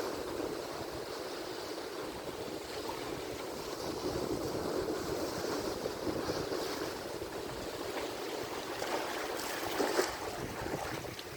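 Atlantic Ocean surf: waves breaking and washing ashore in a steady rushing hiss, with a louder surge of foamy crackle about ten seconds in.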